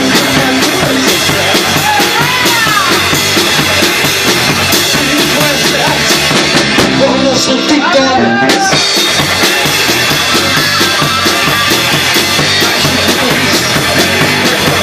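Live rockabilly band playing an instrumental passage at full volume, the drum kit driving a steady beat, with a couple of sliding high notes over the band.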